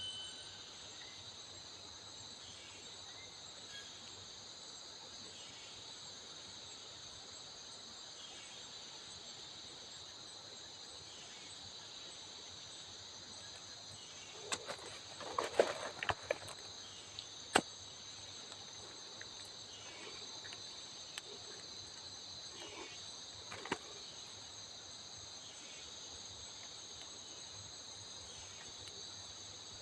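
A steady high-pitched insect chorus of several held tones, with a short run of sharp knocks and clicks about halfway through and one more knock a few seconds later.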